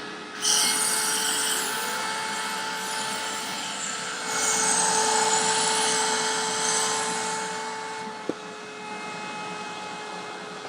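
Hoover WindTunnel upright vacuum running with its air-driven turbo brush tool on the hose: a steady whine over a loud rush of air. It gets louder from about four to seven seconds in, and there is a sharp click a little after eight seconds.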